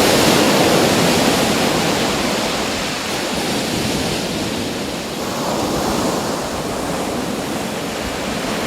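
Sea waves washing ashore. One wave breaks as the sound begins and fades over a few seconds, and a smaller one swells up about five seconds in.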